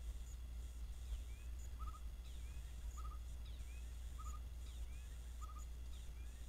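Outdoor natural ambience with a small animal call repeating about every 1.2 seconds, each a quick triple chirp with thin downward-sliding notes, over a steady low rumble.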